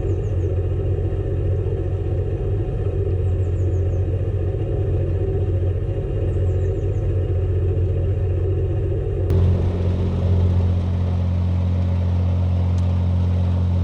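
Narrowboat's inboard diesel engine running steadily at cruising speed, a constant low hum.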